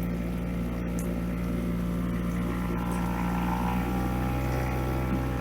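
Small boat's outboard motor, its propeller fitted with a guard, running steadily as the boat pushes through a narrow, branch-choked channel.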